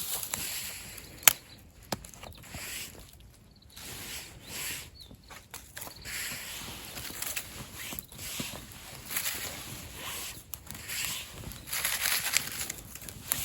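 Small campfire of gathered twigs and branches crackling, with irregular sharp pops and swells of hissing. One loud pop comes about a second in.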